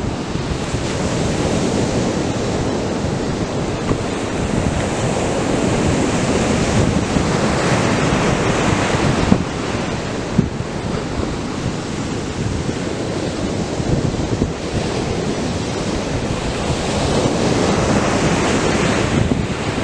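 Atlantic surf breaking and washing up the beach, a continuous rushing that swells as waves break, with wind buffeting the microphone.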